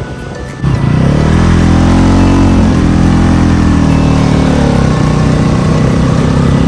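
Motorcycle engine heard while riding: it comes in suddenly about half a second in, rises in pitch as the bike accelerates, eases back, then runs on steadily with wind and road noise.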